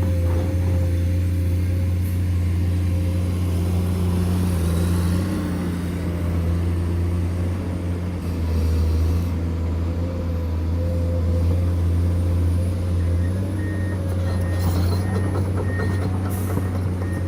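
Heavy diesel construction machinery engine running steadily with a low drone. From about three-quarters of the way in, a reversing alarm starts up, beeping at an even, rapid pace.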